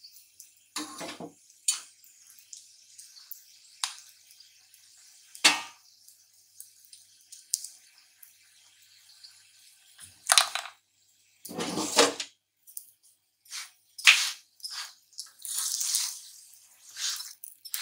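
A paratha frying in oil on a hot iron tawa: a faint sizzle and crackle, broken by a series of short scrapes and knocks of a utensil against the pan. Near the end the paratha is lifted and turned over, with a louder burst of sizzling.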